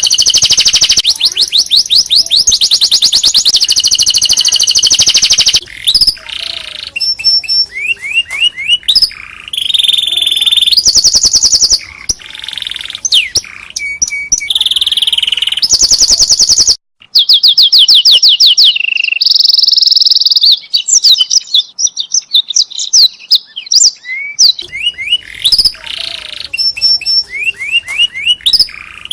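Domestic canary singing a long, loud song of rapid high-pitched trills and rolling, sweeping phrases, with a brief break about halfway through.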